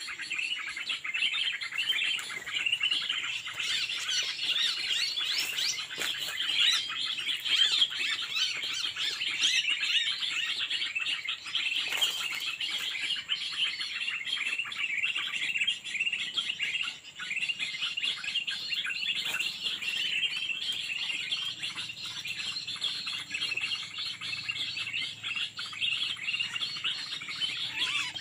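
Dense, continuous high chirping and twittering of many small songbirds, a steady mass of short rapid calls.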